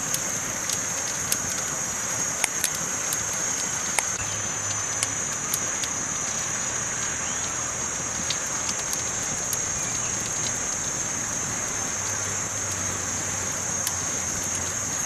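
Campfire crackling: a steady hiss with scattered sharp pops, several close together in the first five seconds and sparser after.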